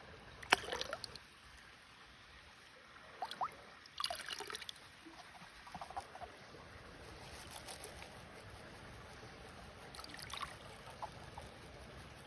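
Water sloshing and trickling in a gold pan as sluice concentrates are panned, with short splashes about half a second in, around three to four seconds, and again near ten seconds.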